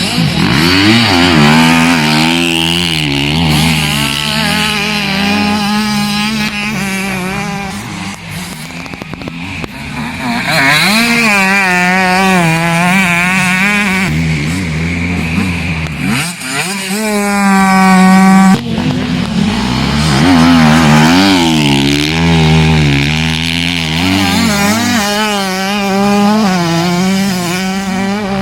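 Motocross motorcycles on track, engines revving hard and falling off again and again as they accelerate and shift. Near the middle, one engine climbs steeply in pitch and then cuts off sharply.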